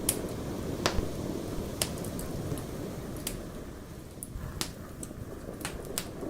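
Wood campfire crackling, with sharp pops about once a second, over a steady low rumble of wind and sea surf.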